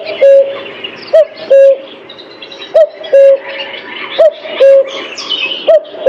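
Cuckoo calling its two-note "cu-coo", a short higher note falling to a longer lower one, repeated about every second and a half, four times and starting a fifth near the end. Other small birds chirp faintly at a higher pitch behind it.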